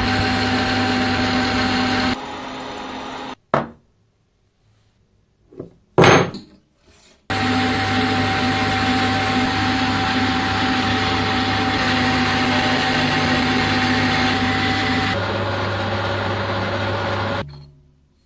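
Electric power tool motor running steadily, in edited clips that cut off and restart abruptly, with a near-silent gap of a few seconds broken by a couple of short bursts.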